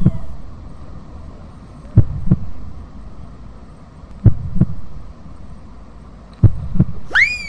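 Heartbeat sound effect: paired low thumps, lub-dub, about every two seconds, used as a tension cue. Near the end comes a whistle that shoots up and then slides slowly down.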